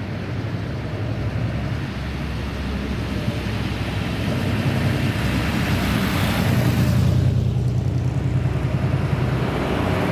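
A car's engine and exhaust running as a car drives by, growing louder toward about seven seconds in.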